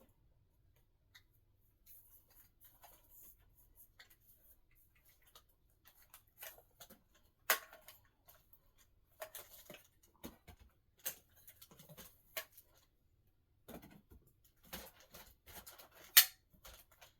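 Scattered clicks, taps and rustles of things being handled, with no motor running, and two sharper knocks, the loudest about sixteen seconds in.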